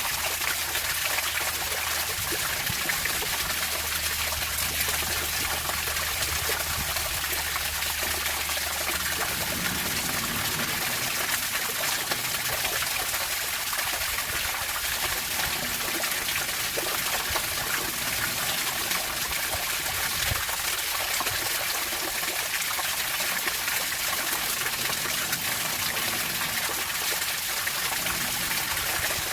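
Running water trickling and gushing in a steady, unbroken rush.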